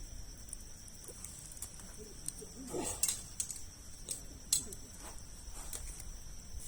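Campfire of large wood logs crackling with scattered sharp pops; the loudest pops come about three seconds in and again about four and a half seconds in.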